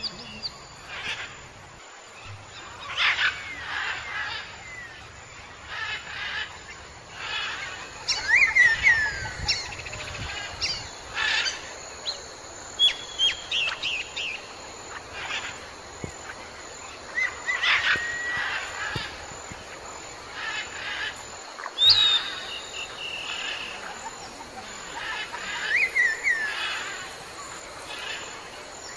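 Outdoor birdsong: several birds chirping and whistling on and off, short calls, some sliding down in pitch, every second or two.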